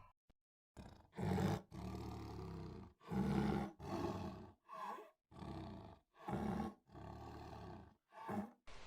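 A big cat giving a series of deep, rough roars and growls, about nine in a row with short pauses between them.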